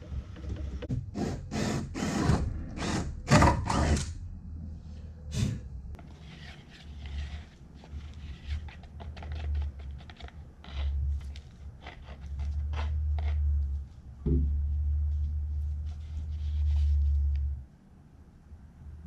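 Handling and work noises: several loud scraping or rubbing strokes in the first few seconds, then scattered knocks and clicks over an intermittent low rumble.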